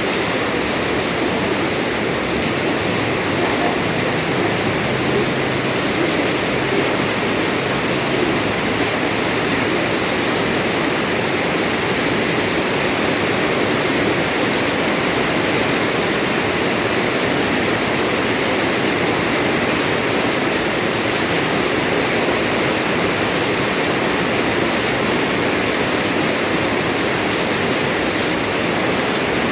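Steady rain falling hard, an even hiss of heavy rainfall.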